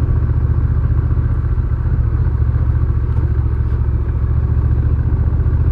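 Honda Rebel 1100's parallel-twin engine running steadily as the motorcycle is ridden, a low, even engine note with no changes in pitch.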